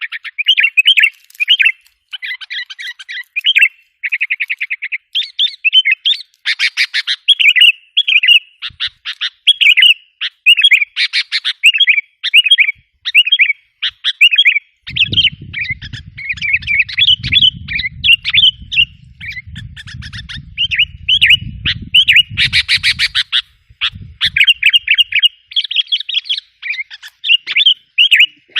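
Sooty-headed bulbuls calling and chattering without pause, quick bubbly phrases mixed with harsh rattling notes, as in a lure call meant to rile wild bulbuls. A low rumble runs under the calls through the middle stretch.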